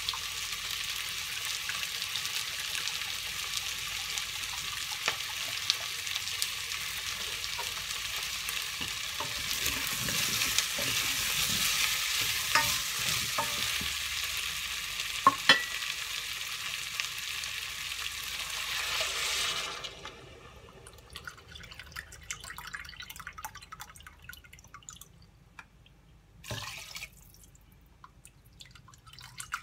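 Diced potatoes frying in butter in a stainless steel saucepan, sizzling steadily while a spatula stirs them, with a few sharp knocks of the spatula on the pan. About twenty seconds in the sizzling cuts off suddenly as chicken broth goes into the pan, leaving only small clicks and liquid sounds and one short knock near the end.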